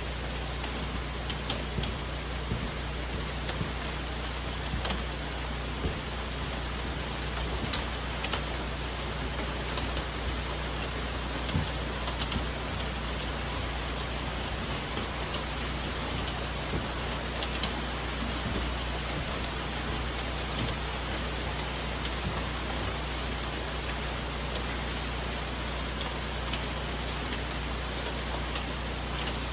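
Steady rain falling on forest leaves, a constant hiss with scattered individual drops tapping close by.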